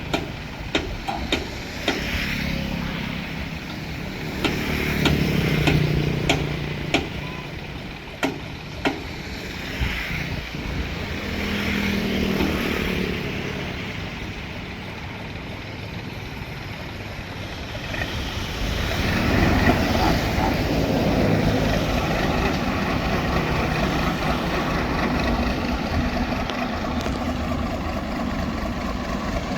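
Engine of a homemade mud suction boat running, its pitch and loudness rising and falling and getting louder about two-thirds of the way through. About ten sharp knocks come in the first third.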